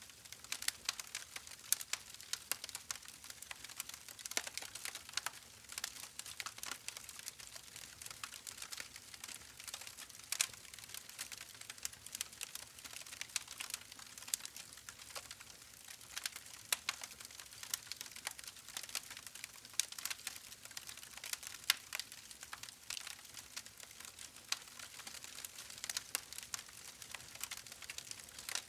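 Wood fire burning in a fireplace, crackling with a constant scatter of sharp irregular pops and snaps over a soft hiss.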